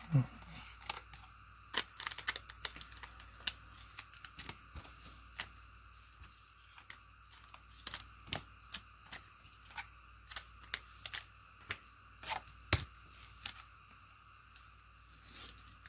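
Hands handling trading-card packs and cards: irregular small clicks, snaps and crinkles of card stock and foil wrapper, with a light tearing sound.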